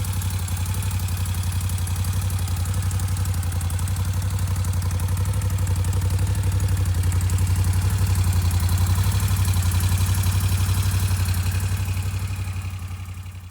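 Moto Guzzi V7 III's air-cooled transverse V-twin idling steadily, fading out near the end.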